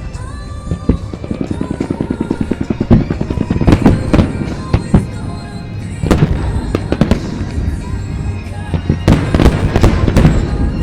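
Aerial fireworks bursting in quick succession over the show's accompanying pop music, with a run of rapid crackling about two to three and a half seconds in and heavy bangs around four, six and nine to ten seconds in.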